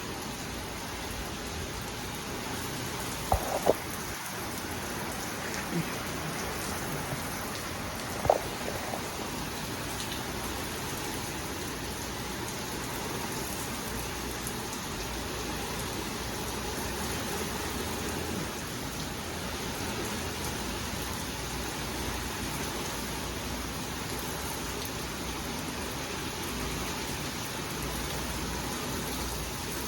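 Steady rain and wind from a passing thunderstorm. A few short sharp knocks come about three and eight seconds in.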